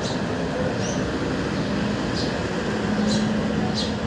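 Short, high bird chirps, about five of them spaced roughly a second apart, over a steady low hum and rumble of background noise.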